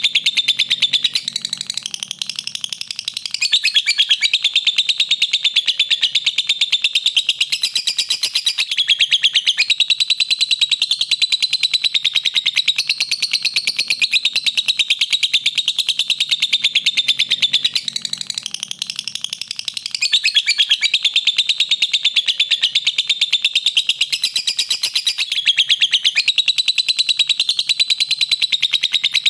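Lovebird giving a long, unbroken, rapid high-pitched chattering trill, with a brief lower-pitched dip twice; the same passage recurs about every 17 seconds, as in a looped recording.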